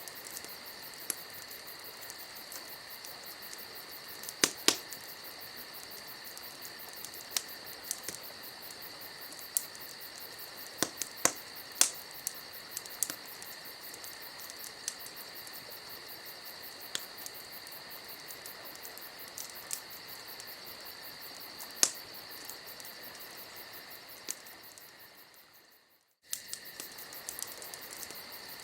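Campfire ambience: a wood fire crackling with scattered sharp pops over a steady chorus of crickets. It fades out near the end and starts again a moment later.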